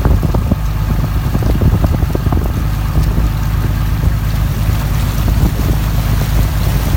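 Pickup truck driving, a steady low engine and road rumble with wind buffeting the microphone and scattered small knocks.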